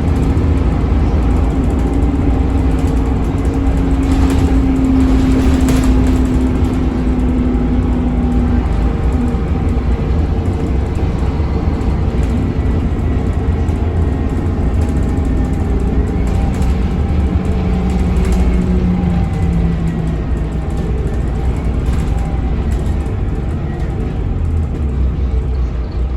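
Scania K280UB bus under way, its Scania DC9 diesel engine and ZF Ecolife automatic transmission giving a steady low rumble. A whine holds for the first eight seconds or so, and a lower whine returns for a few seconds past the middle.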